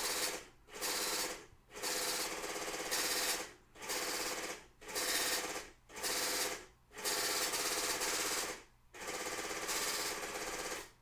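Ticket printer printing a weighing ticket in eight buzzing bursts of about a second each, with short pauses between them, as it prints line by line.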